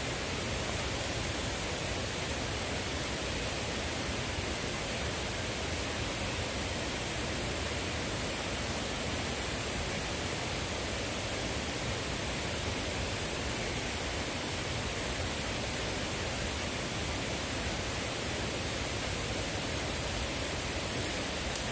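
Steady, even hiss with a single sharp click near the end.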